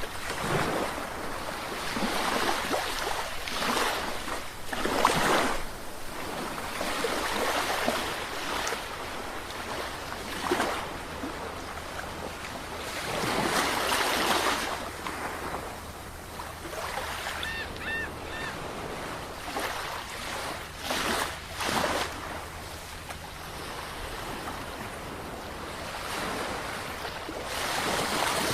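Sea waves breaking and washing ashore, a surge of surf every few seconds.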